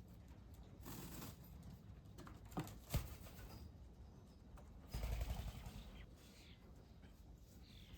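Faint small-bird sounds at a bird bath: two sharp taps just before three seconds in, a brief rustling rush with a low thump about five seconds in, and a few faint short chirps.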